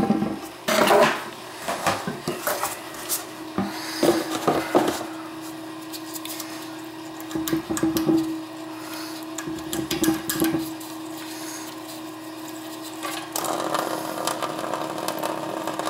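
Hand tools knocking and scraping at a toilet's base and its corroded closet bolts, in irregular clicks and clunks that are busiest in the first five seconds, over a steady hum.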